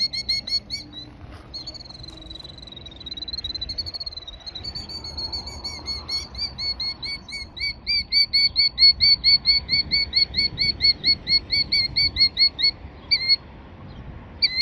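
Killdeer alarm calling while defending its eggs: a rapid series of short, high, sharp notes, about five a second, which run together into a steadier trill about two to four seconds in and break off briefly near the end.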